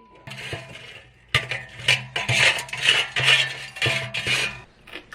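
Cutlery clinking and scraping against dishes: a sharp click, then a run of short scrapes and clinks.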